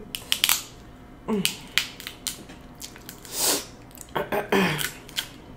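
Close-miked eating sounds of a person chewing seafood: wet smacking and sharp mouth clicks. There are two short falling hums, and a breathy rush of air about midway.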